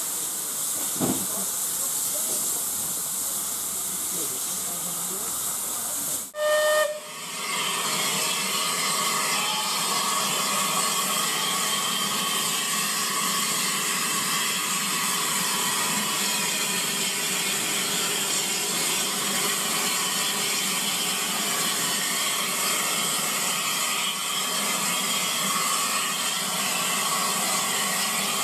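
Steam locomotive hissing steadily as it lets off steam, with one short whistle toot about six seconds in.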